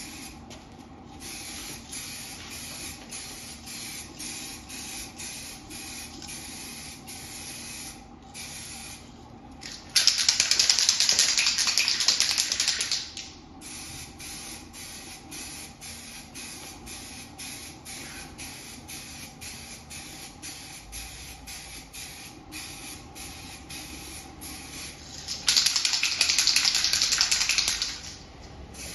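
Aerosol can of 2K clear coat spraying in two bursts of about three seconds each, one about a third of the way in and one near the end, laying a heavy final coat on a headlight lens. A steady quick ticking runs underneath.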